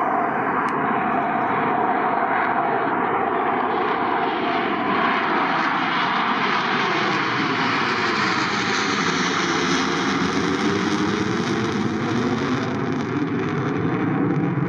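Military aircraft engines running loudly as an aircraft passes, the roar growing brighter toward the middle and easing off near the end, with a sweeping, phasing quality as it goes by.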